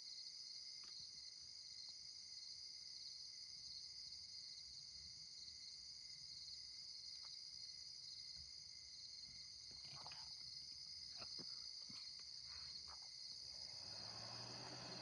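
Faint night chorus of crickets, a steady high-pitched trill, with a few faint clicks about ten seconds in. Near the end, an air-conditioning unit starts up and adds a steady low hum and fan noise.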